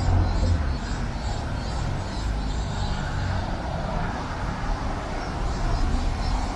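City road traffic going by, a steady outdoor hum with the low rumble of a passing vehicle right at the start and another swelling near the end.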